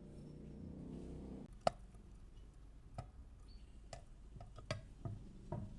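Scattered light clicks and knocks of metal motorcycle engine parts being handled and set down during reassembly, the loudest about a second and a half in. A low steady hum cuts off just before that first knock.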